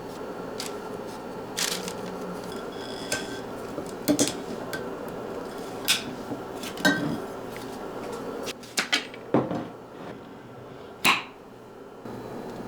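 Kitchenware clinking and knocking: a string of separate sharp clicks and knocks, irregularly spaced, over a steady low hum.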